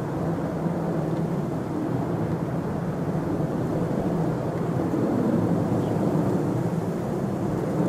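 Jet airliner engines at high power, a steady low rumble heard from a distance.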